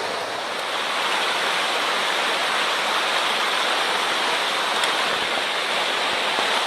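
Rushing water of a mountain stream running high after a typhoon, a steady, even rush.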